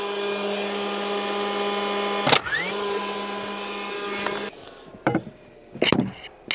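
Power tool motor whining at a steady speed. It is cut by a sharp knock about two seconds in, spins straight back up, and stops a couple of seconds later, followed by a few sharp wooden knocks.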